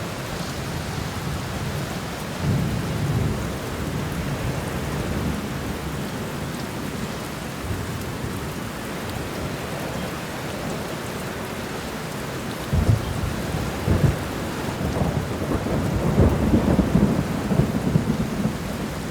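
Steady heavy rain hissing, with thunder: a low rumble about two seconds in, then sharp cracks and a long loud rolling rumble through the last third.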